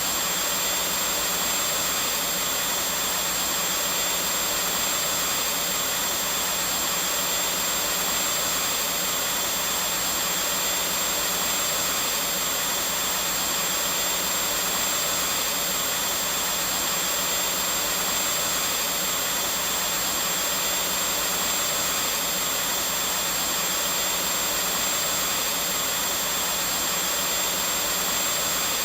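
Vacuum cleaner running steadily: an even rushing hiss with a thin, high-pitched whine, not changing at all.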